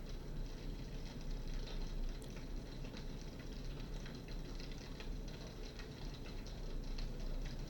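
Crackling log-fire soundtrack of an AtmosFX digital fireplace: a steady hiss with frequent small, irregular pops and crackles.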